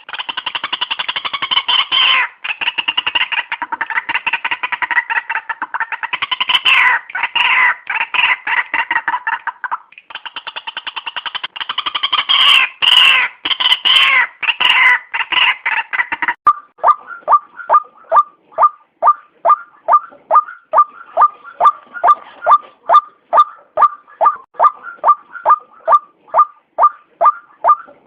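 White-breasted waterhen calling: a dense run of overlapping, jumbled calls for about the first sixteen seconds, then a steady series of single short notes repeated about two and a half times a second.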